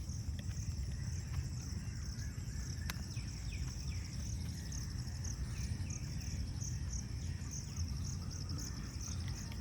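Insects, cricket-like, chirping in a steady run of high-pitched pulses, with a few faint bird chirps in the middle and a low rumble underneath.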